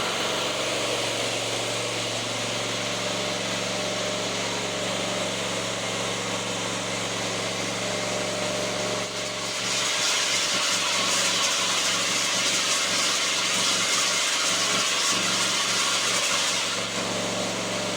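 Riding lawn mower engine running on a test run after new spark plugs and a fuel filter, checking whether its misfire is cured. From about ten seconds in to near the end a louder, hissy whirring rises over the steady engine note, then drops back.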